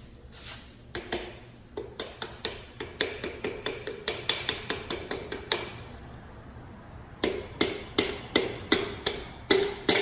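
Piston being tapped down out of a band-type ring compressor into a cylinder bore of a Chevy 350 small-block with the end of a hammer handle. There is a run of quick taps, about three or four a second, then a pause of a second or two, then a second run of taps.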